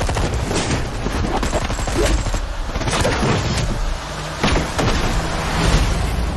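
Rapid volleys of gunfire with heavy booming impacts, a dense action-movie sound-effects mix with several stronger hits spread through it.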